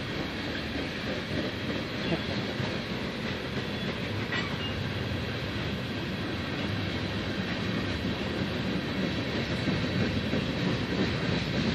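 Union Pacific freight train's cars rolling past, a steady noise of steel wheels on rail that grows slightly louder near the end.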